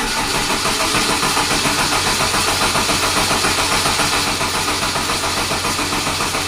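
Electric starter cranking a generator set's engine with a steady, rhythmic chugging of about four to five compression strokes a second, the engine not catching: a hard-starting genset.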